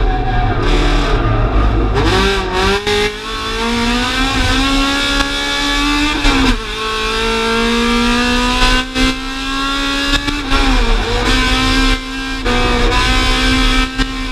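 Honda B16A 1.6-litre DOHC VTEC four-cylinder in a stripped EG Civic racing hatch, heard inside the gutted cabin, pulling hard under acceleration on track. The revs climb, fall back at a gear change about six and a half seconds in, climb again, and dip briefly around ten and a half seconds.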